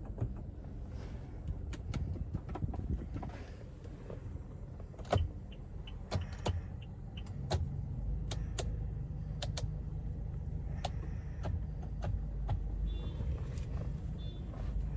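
Low steady rumble of a car with many scattered sharp clicks and knocks; the rumble grows a little stronger about eight seconds in.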